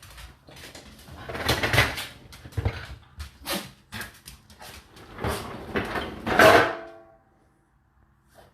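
Dishes and dishwasher racks being handled: a series of irregular clattering knocks and scrapes. About six and a half seconds in comes the loudest clank, which rings on briefly.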